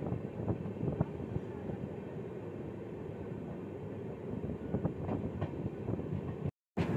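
Passenger train running along the track, heard from a coach: a steady rumble of wheels on rail with a few sharp clicks. The sound drops out for a moment just before the end.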